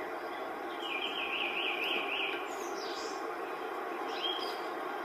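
A songbird singing: a quick trill of rising and falling high notes about a second in, then a few shorter high chirps, over a steady background hiss.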